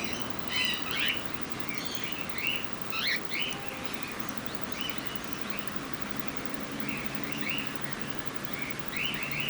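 Cockatiels chirping: short, quick calls that slide up and down in pitch. A run of them comes in the first few seconds, a few scattered calls follow, then they pick up again near the end.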